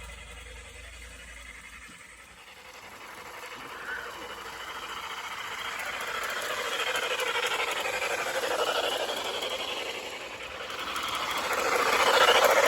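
Aristo-Craft 0-4-0 garden-scale model locomotive and coaches rolling along the track, their wheels rattling on the rails, growing steadily louder as the train approaches and loudest near the end.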